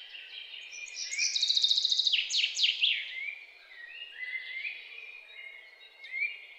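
Birdsong: several birds chirping and calling together, with rapid high trills and quick falling whistles, loudest between about one and three seconds in.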